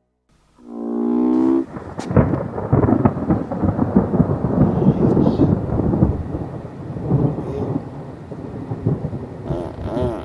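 Thunder rumbling and crackling in a long rolling peal that slowly eases, after a short pitched sound at its onset.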